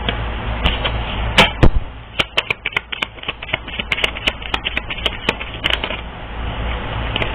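A deck of reading cards being shuffled and handled: an irregular run of sharp clicks and snaps, several a second, over a steady low hum.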